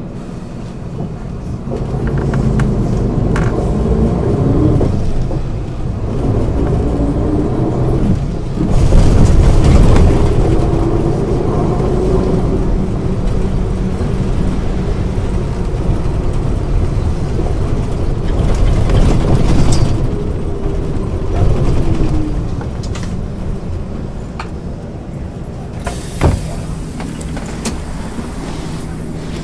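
Engine of a 1999 MAN ÜL 353 intercity bus heard from inside while driving. Its pitch rises and drops several times as it pulls through the gears, loudest about nine seconds in, then it settles to a lower, steadier running note after about twenty-two seconds. A couple of sharp clicks come near the end.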